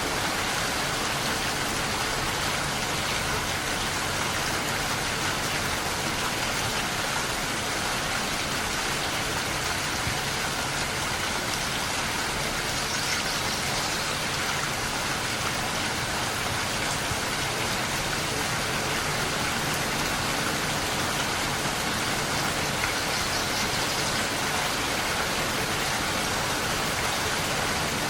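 Steady rain falling on surfaces, an even hiss of drops with no let-up.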